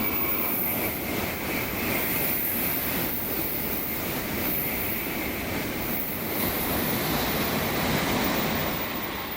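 Shinkansen bullet train running through the station: a steady rushing noise that fades near the end.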